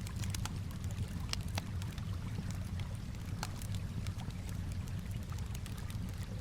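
Wood fire crackling, with frequent sharp irregular pops, over a steady low wash of gently lapping water.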